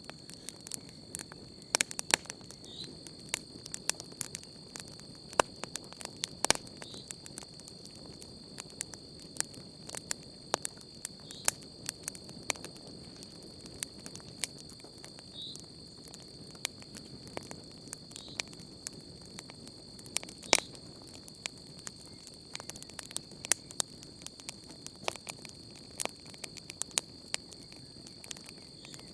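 Campfire crackling, with frequent sharp irregular pops and snaps over a soft low rush of flame. A steady high trill of crickets runs beneath it.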